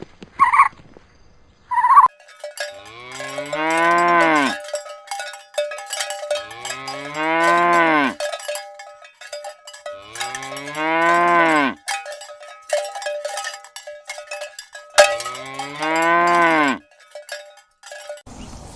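Cow mooing four times, each a long call that rises and then falls in pitch, with cowbells clanking between and under the moos. Two short high-pitched calls come in the first two seconds.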